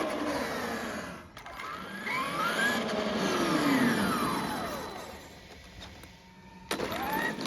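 Traxxas X-Maxx 8S RC monster truck's electric motor and drivetrain whining as it speeds up and slows down, the pitch rising then falling twice, over tyre noise. A sudden new burst of the same kind of sound starts near the end.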